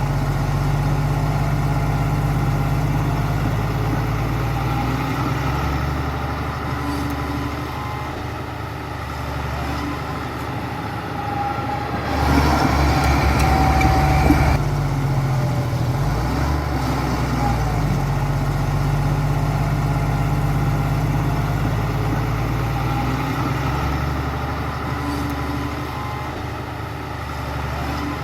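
Heavy diesel construction machine engine running, its pitch stepping up and down several times, with a louder, rougher stretch about twelve seconds in.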